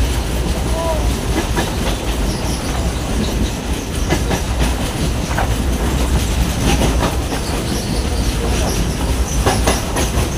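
Local passenger train running at speed, heard from its open doorway: a steady rumble of the wheels on the rails with scattered clicks.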